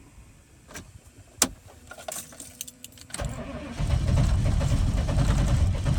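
A few sharp clicks, then from about three seconds in the starter cranks the 1995 GMC K1500's cold 6.5-litre turbo diesel V8, which turns over but does not catch: a cold start at about 20 °F with no working block heater.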